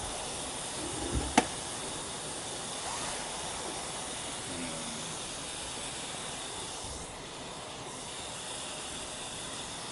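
Steady hiss of pork belly sizzling in a cast-iron skillet over a wood fire, with one sharp pop about a second and a half in.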